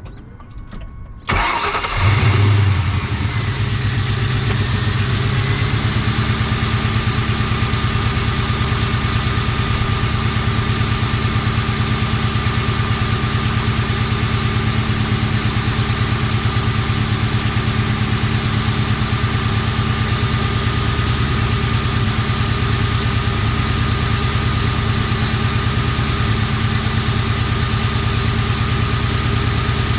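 Car engine cranked and catching about a second and a half in, flaring briefly, then settling into a steady idle with an even pulsing. The owner takes the rough running for a misfire, which he goes on to trace to a faulty ignition coil pack.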